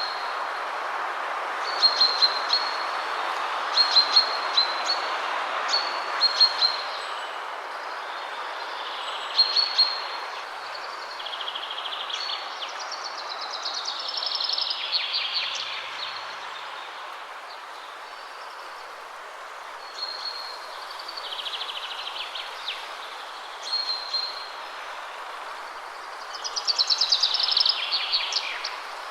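Steady wind rushing through trees, with small birds singing over it: repeated short high chirps and, twice, a louder rapid trill.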